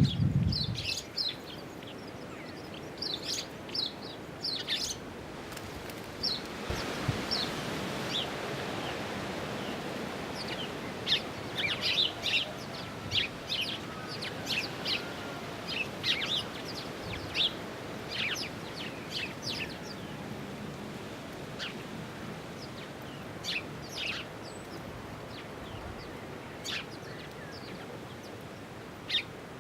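Garden birds chirping and calling: many short, high chirps scattered irregularly throughout, over a steady background hiss that grows a little after the first few seconds.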